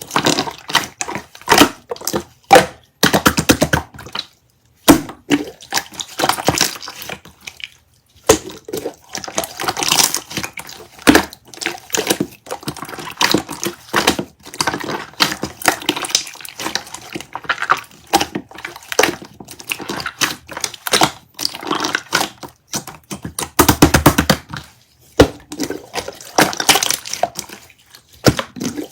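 Clear slime being squeezed and pressed by hand: a run of sticky, wet clicks and pops. Two short pauses break it, about four and a half seconds and about eight seconds in.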